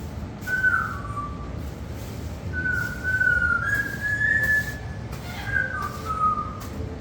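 Clear whistling of a few slow notes. Some are held for about a second and others slide or step down in pitch.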